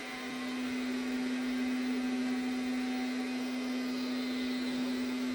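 Arnagar S8 robot vacuum cleaner running steadily through its cleaning cycle: an even motor hum with a constant low tone under a whirring hiss.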